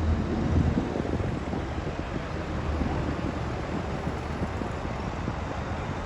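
Vintage tractor engine running steadily, with wind buffeting the microphone.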